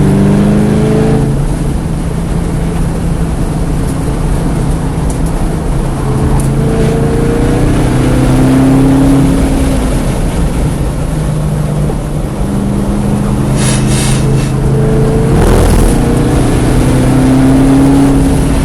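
Car engine running hard while lapping a race track, its pitch climbing with the revs and dropping back several times as it shifts and slows, over a steady rush of road and wind noise.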